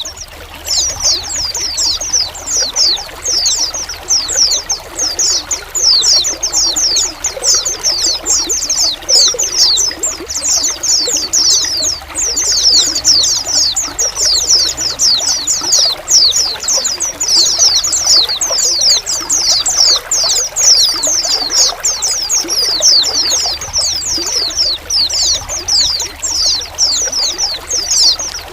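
A flock of white-eyes (pleci) calling together: many short, high, downward-slurred notes overlapping without a break, over the steady trickle of running water.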